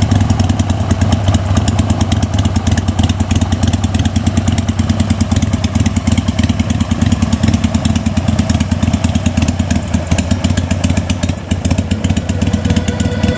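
2003 Harley-Davidson XLH883 Sportster's 883 cc air-cooled V-twin running at a steady speed, a loud, rapid pulsing exhaust note.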